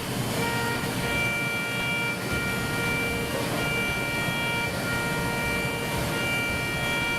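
5-axis CNC mill cutting aluminium at high speed: a steady machining noise with several high steady tones from the spindle and end mill that cut in and out every second or so as the cutter engages and leaves the material.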